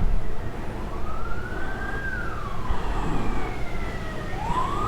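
A siren wailing, its pitch rising slowly and falling again, then starting to rise once more near the end, over a low steady rumble.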